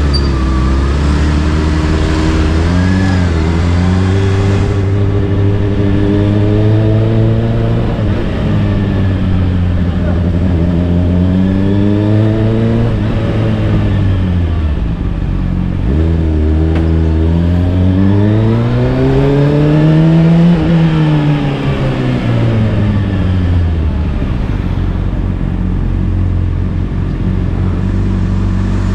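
Honda CBR600RR's inline-four through an Akrapovic exhaust, ridden along: the engine note climbs smoothly as the bike speeds up and falls away as it slows, twice, with the biggest rise about two thirds of the way in. Wind rushes over the microphone in the first few seconds.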